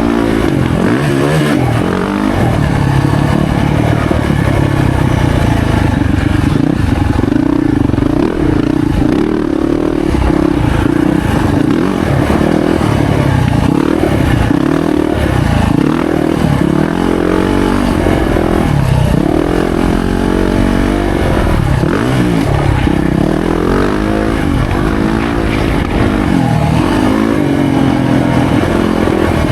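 Yamaha YZ450F four-stroke single-cylinder dirt bike engine under riding load, its pitch rising and falling over and over as the throttle is opened and chopped.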